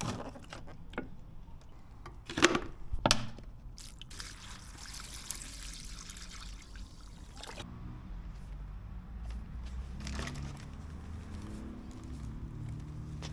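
A few sharp clicks or knocks, then liquid pouring in a steady stream for about three and a half seconds, stopping suddenly.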